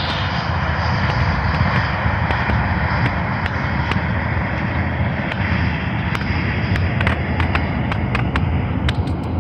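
Boeing 737 jet engines running, a loud steady roar whose hiss thins a little near the end, with scattered sharp clicks over it.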